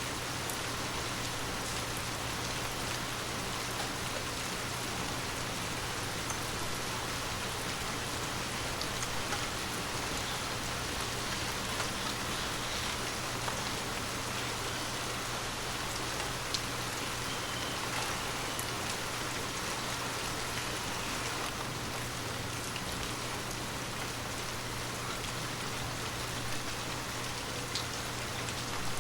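Heavy rain falling steadily: a dense, even hiss with scattered sharper ticks of single drops striking.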